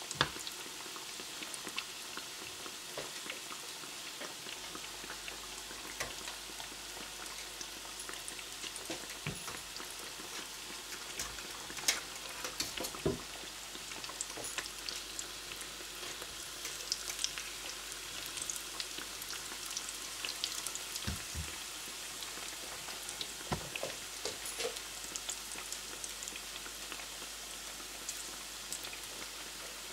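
Breaded zucchini slices frying in hot oil: a steady sizzle with many scattered crackles and pops.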